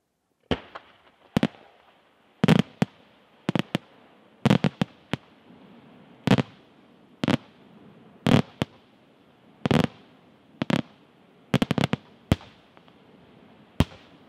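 Aerial firework shells bursting overhead: a run of sharp bangs about one a second, some in close pairs, beginning about half a second in, with a faint hiss between them.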